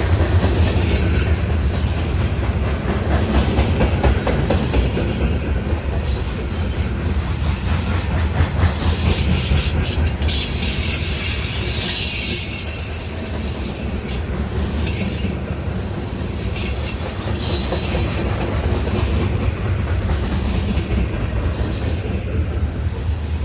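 Loaded grain hopper cars of a freight train rolling past with a steady rumble, wheels clacking over the rail joints, and a high squeal from the wheels about halfway through.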